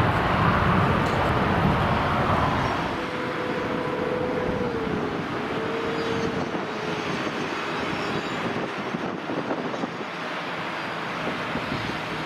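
Steady roar of jet aircraft engines at an airport, with wind buffeting the microphone in the first few seconds. A faint whine holds steady for a few seconds in the middle and dips briefly partway through.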